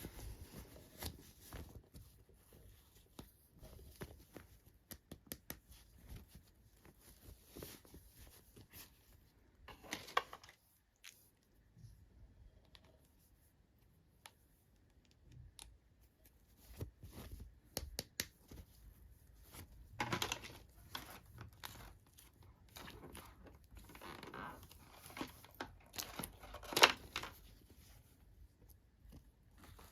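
Toy packaging being torn open and crinkled by hand, with scattered small clicks and taps; longer tearing bursts come about a third of the way in, two-thirds in and near the end, where the loudest one falls.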